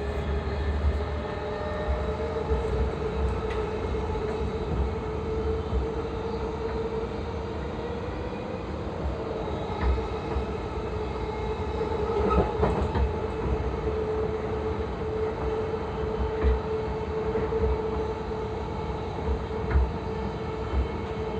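JR East E233-3000 series electric train running, heard from inside the car: a steady motor hum that shifts slightly in pitch over low wheel-on-rail rumble, with scattered clicks from the rails.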